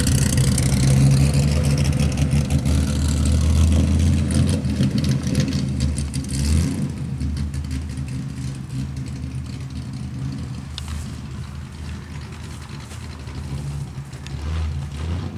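Engine and open exhaust of a Corvette-based tube-frame kart running as it drives away. It is loud for the first six or seven seconds, then fades with distance, with a brief rise again near the end.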